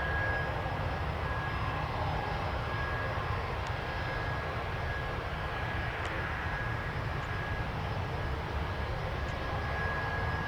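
Steady jet engine noise from an airliner at the airport: an even rumble with a thin, steady high tone above it.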